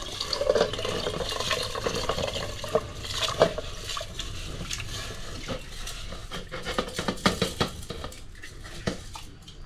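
A metal spoon or ladle stirring and scraping in a cooking pot, with irregular clinks and knocks of utensils against metal.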